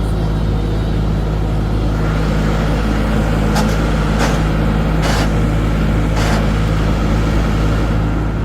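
Tractor engine running steadily, with four or five short knocks or clanks in the middle of the stretch.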